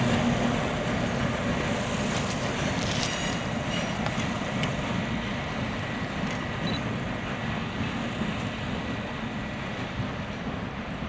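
GP38 diesel locomotive and its train rolling along, a steady rumble that slowly fades as it moves away.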